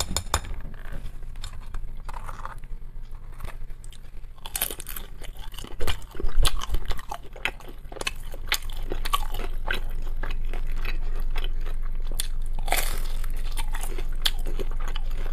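Chewing and biting of pan-fried dumplings close to the microphone: crunching of the crisp fried crust and wet mouth clicks, with a few louder crunching bites, the loudest about six seconds in.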